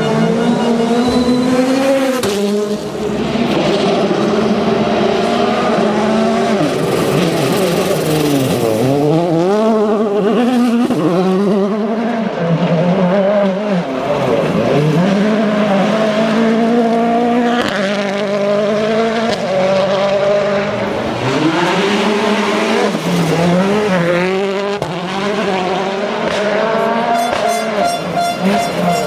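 World Rally cars' turbocharged four-cylinder engines driven hard on a rally stage. The engine note sweeps up and down through braking, gear changes and acceleration, car after car, with abrupt jumps from one car to the next.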